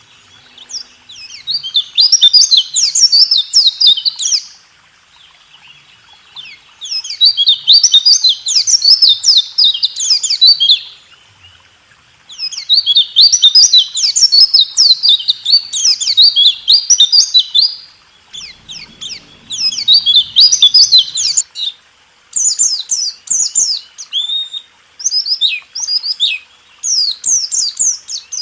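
A pleci (white-eye) singing a fast rolling 'roll tembak' song of rapid high twittering notes. It comes in bouts of three to five seconds with short pauses between them, breaking into shorter phrases near the end.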